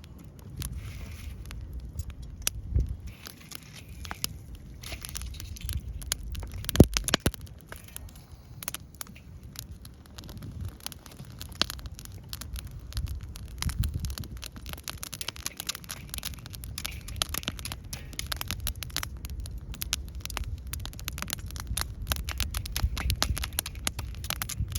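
Wood fire crackling with frequent sharp, irregular pops over a low rumble. The loudest pop comes about seven seconds in.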